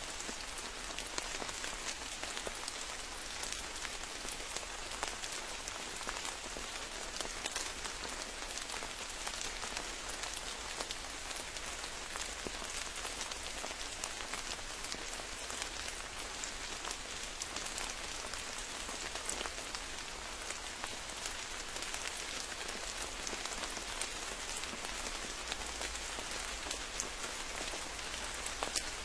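Steady rain falling in a forest, a dense patter of many small drops hitting leaves and ground, with a faint low rumble underneath.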